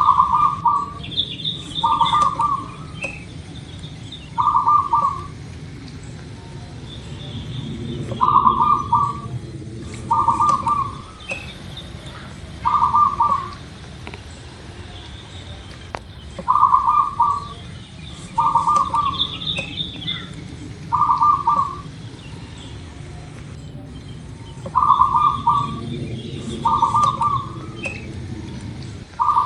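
Zebra dove (perkutut) cooing: rolling, stuttering coos in sets of three, a set about every eight seconds. Fainter high chirps from other small birds come in between.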